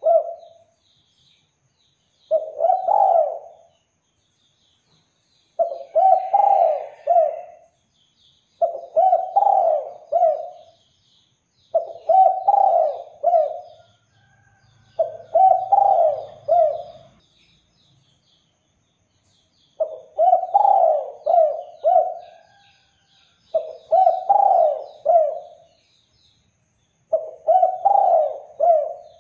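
Spotted dove (derkuku) cooing loudly in repeated phrases of two to four notes, about one phrase every three to four seconds, eight phrases in all. Faint high chirps of small birds run underneath.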